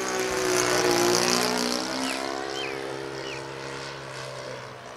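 Fuel-engined RC model airplane flying past: a steady engine drone whose pitch drops slightly as it goes by, loudest about a second in and then fading away.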